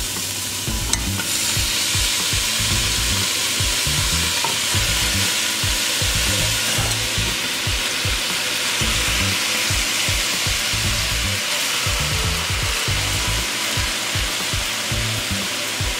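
Chopped onions and bell peppers sizzling in a hot stainless steel pot while turkey wings are laid in with tongs. The sizzle grows louder about a second in and then holds steady, with light scraping and handling of the tongs and pot underneath.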